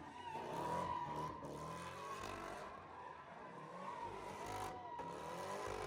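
Car tires squealing in a long, continuous skid, the pitch wavering around one high note, with engine noise beneath.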